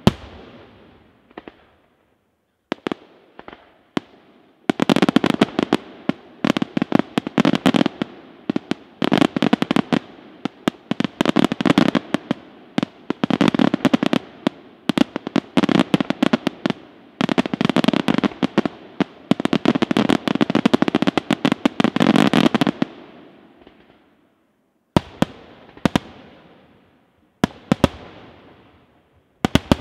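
Daytime fireworks shells bursting overhead in sharp bangs. A few separate reports come first, then a dense, rapid barrage of bangs lasting about eighteen seconds, then single loud bangs again near the end.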